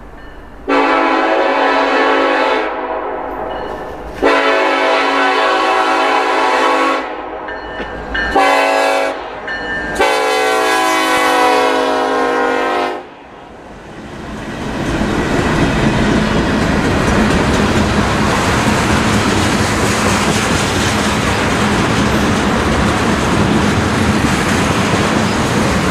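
Freight locomotive horn sounding two long blasts, a short one and a long one: the standard grade-crossing signal. The horn stops about 13 seconds in, and the locomotives and a long string of tank cars roll past with steady wheel-on-rail noise.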